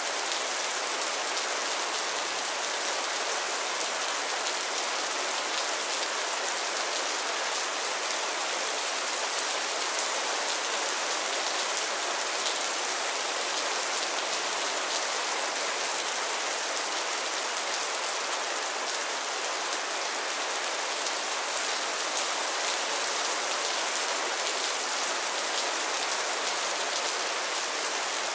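Steady light rain falling on a roof and the ground: an even hiss of many small drop hits, unchanging throughout.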